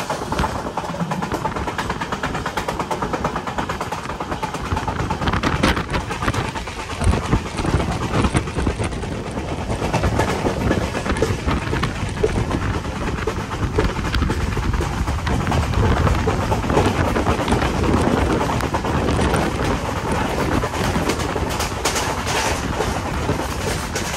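Passenger train running on the track: a steady rumble of wheels on rail with scattered clicks and clatter.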